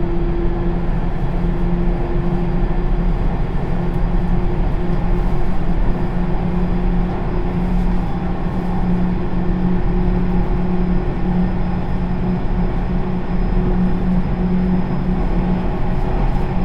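Sotetsu New 7000 series electric train with Hitachi GTO inverter running along the line: a steady rumble of wheels on rails with a constant low hum and a higher steady tone over it.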